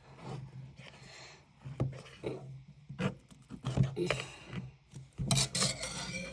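Speed-cube box packaging being handled and opened by hand: irregular rubbing and scraping with a few light knocks, busiest near the end.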